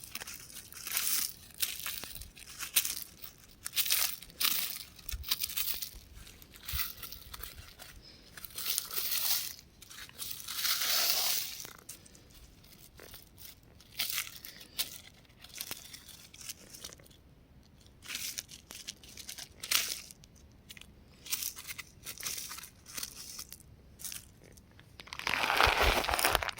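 Crumbling rock crunching and crackling in short, irregular bursts, with a longer crunch about ten seconds in and louder, denser crumbling near the end.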